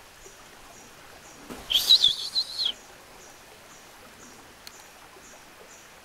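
A bird gives one high, wavering call lasting about a second, a little under two seconds in. Behind it a faint high chirp repeats about twice a second.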